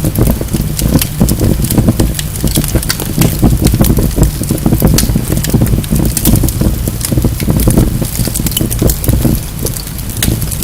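Wood fire burning in a fireplace, logs crackling and popping continuously over a steady low roar of the flames.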